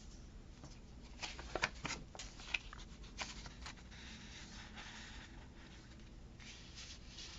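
Paper sticker sheets being handled: a string of small clicks and taps, then a soft papery rustle for a couple of seconds.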